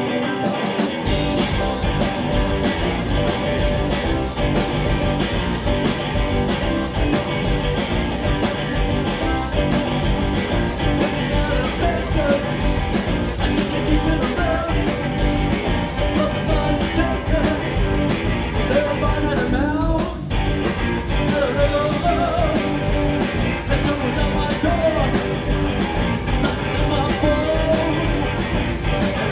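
Live rock band playing loudly, with guitars and drums; the full band comes in about a second in, with a brief drop around twenty seconds in.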